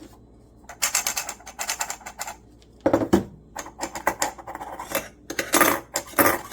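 Hard objects being handled: quick, irregular clicking and clattering, with a few louder knocks.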